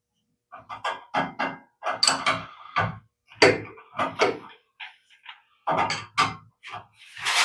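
A run of irregular short knocks and clinks from tools and metal parts being handled, with a brief scraping rustle near the end.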